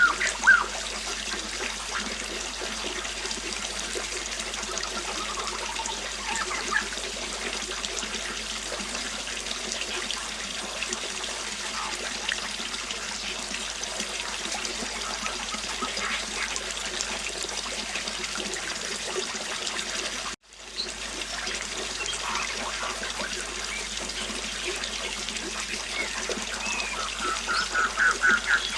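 Steady flowing river water, with short bird chirps at the start and a run of quick repeated chirps near the end. The sound cuts out for a split second about two-thirds of the way through.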